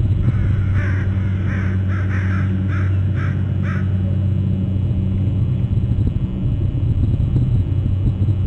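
A bird gives a series of about seven short, harsh calls in quick succession, stopping about four seconds in, over a steady low rumble.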